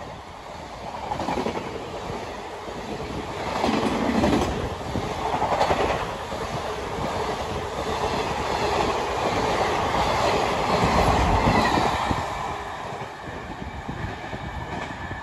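Express passenger train coaches passing close at speed, a continuous rumble with the wheels knocking over the rail joints. The rumble eases off near the end as the last coach goes by.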